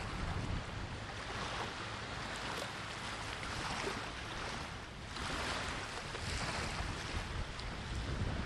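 Sea surf washing onto the shore in repeated swells, one wave surging in strongly about five seconds in, with strong wind buffeting the microphone as a low rumble.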